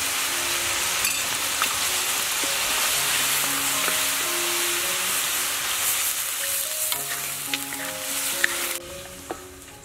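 Chicken pieces sizzling hard in a hot pan as they are stir-fried and turned with a wooden spatula, with small scraping ticks. Near the end the sizzle drops away suddenly.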